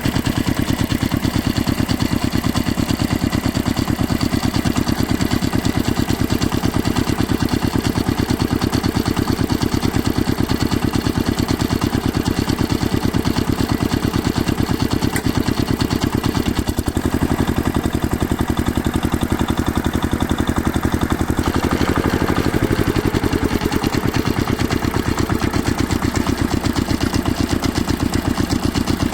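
Tractor engine running steadily, with a rapid, even firing beat.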